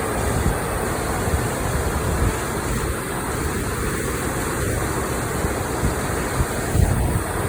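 Creek water rushing steadily, an even, unbroken noise with a low rumble underneath.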